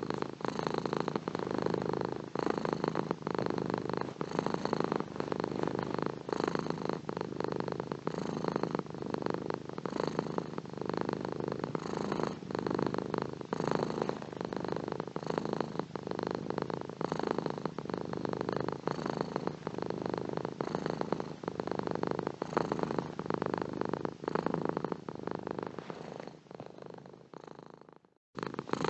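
Domestic cat purring steadily, the purr swelling and easing with each breath in and out. Near the end it fades out to a moment of silence, then starts again.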